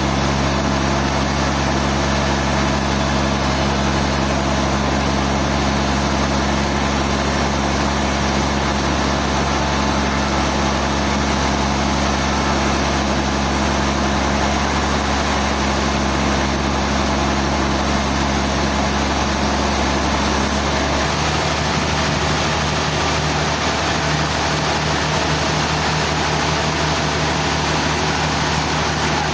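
Heavy engine-driven machinery running steadily, with a change in its steady hum about two-thirds of the way through.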